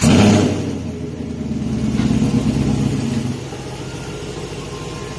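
Camaro LT1 V8 with long-tube headers and a Magnaflow muffler catching and firing with a loud bark. It holds a raised idle for about three seconds, then drops to a lower steady idle.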